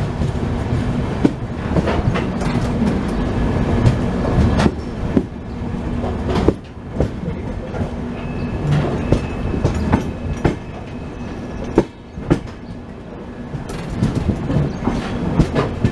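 Passenger express train running along the track, heard from aboard a coach: a steady rumble with irregular clicks and knocks of the wheels over rail joints.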